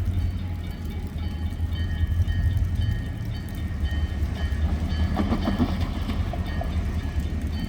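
Freight train running by: a steady low rumble, with thin high tones that break off and resume.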